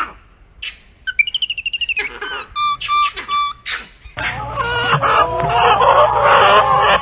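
Bird calls: short repeated chirps and a fast rising trill, then from about four seconds in a dense chorus of many birds calling at once.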